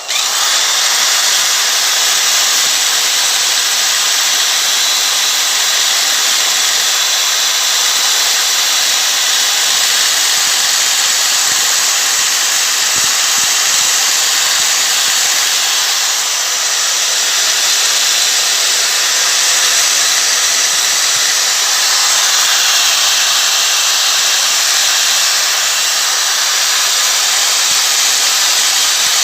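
Electric drill spinning a worn 120-grit sanding disc against an aluminium alloy wheel: a steady, loud abrasive hiss that starts suddenly and holds level throughout.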